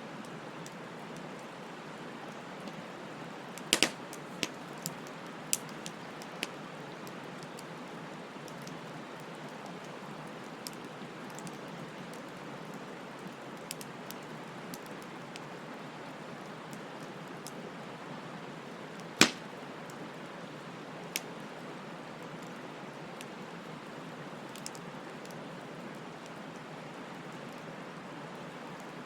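Wood bonfire burning with a steady hiss and scattered sharp pops of crackling wood: a cluster of pops about four seconds in, and the loudest single pop about two-thirds of the way through.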